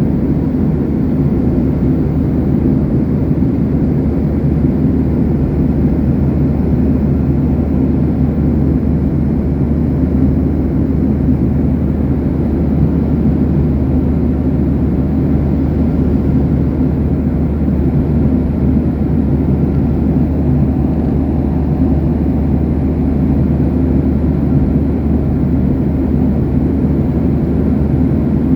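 Steady low drone inside a passenger airplane's cabin in flight: engine and airflow noise that stays unchanged.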